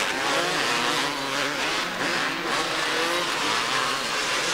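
Several 250cc two-stroke motocross bikes racing, their engines revving up and down over one another with constantly wavering pitch.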